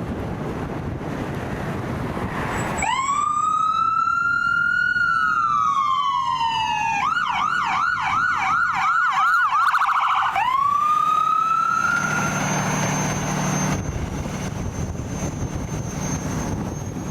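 An emergency vehicle's siren sounds over engine and road noise. It starts about three seconds in with a rising wail, switches to a fast yelp that speeds up, then rises into a wail again and dies away. After that a vehicle engine rumbles steadily.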